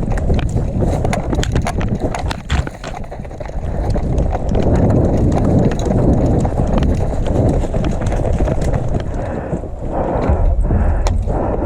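A person running: quick footsteps with scattered sharp clicks over a steady rumbling noise.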